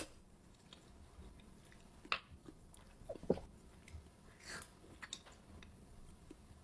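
Close-miked chewing of fruit: soft, wet mouth smacks and bites, with a few louder ones about two, three, four and a half and five seconds in.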